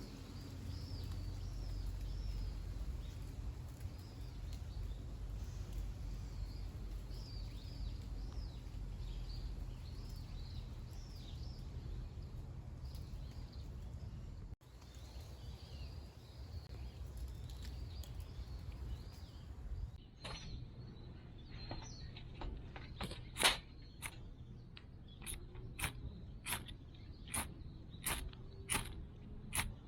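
Small birds chirping and singing over a low steady outdoor rumble. About twenty seconds in this gives way to a series of sharp clicks, roughly one or two a second.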